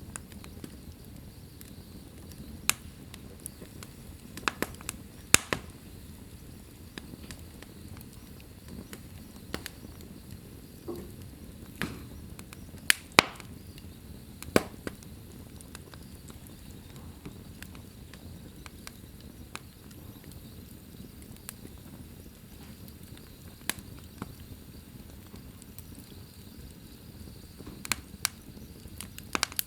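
Wood fire burning in a fireplace: a low steady rush of flames with irregular sharp crackles and pops from the burning logs, a few of them loud.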